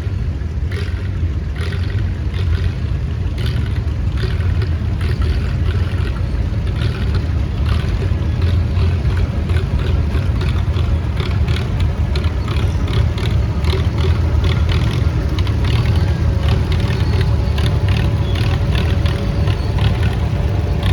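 Antique farm tractor engine running steadily as it drives by at parade speed, a loud low rumble with a quick exhaust beat.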